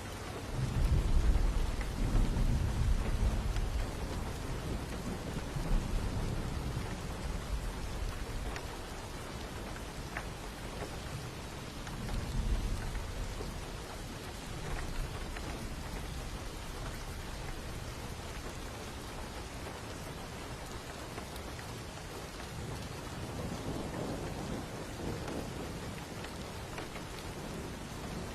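Steady rain falling, with rolls of thunder. A long low rumble begins about a second in and is the loudest part, a shorter rumble comes around the middle, and a softer one follows later.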